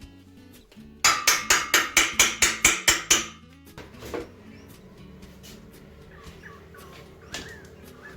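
A quick run of about a dozen sharp metal-on-metal strikes, roughly five a second, lasting about two seconds, over background music.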